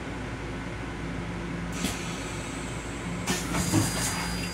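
Interior running noise of a Long Island Rail Road M7 electric railcar, heard from inside its restroom: a steady low hum, with short bursts of hissing noise just under two seconds in and again from a little over three to about four seconds in.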